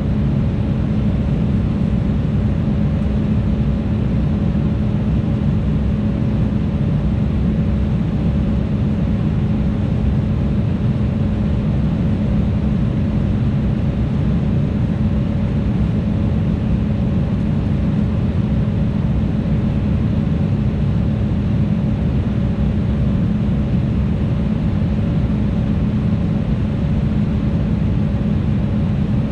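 Steady in-flight cabin noise of an Embraer E175 airliner: an even rush of airflow and turbofan engine drone with a steady low hum, unchanging throughout.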